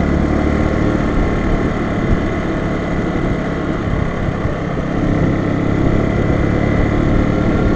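Bajaj Boxer BM 150 motorcycle's single-cylinder four-stroke engine running steadily while the bike is ridden along.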